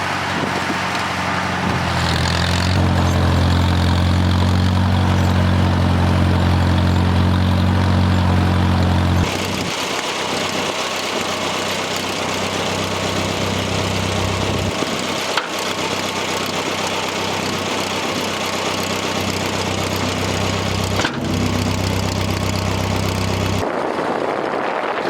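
Farmall M tractor's four-cylinder engine running steadily, loud for the first nine seconds, then fainter and coming and going, with gusty wind on the microphone. The engine sound stops shortly before the end.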